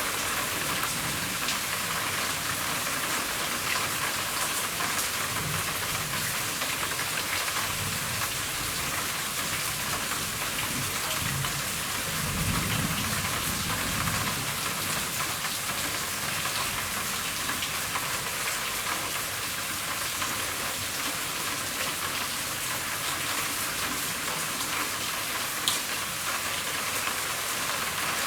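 Steady heavy rain drumming on a roof, a dense even patter. About halfway through, a low rumble of distant thunder swells and fades, and near the end a single sharp tap stands out.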